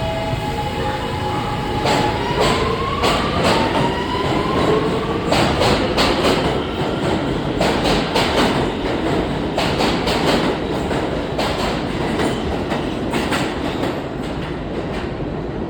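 R211A New York City subway train running, its motors whining up in pitch over the first few seconds as it gathers speed. Then the wheels click over rail joints in quick runs, over a steady running rumble.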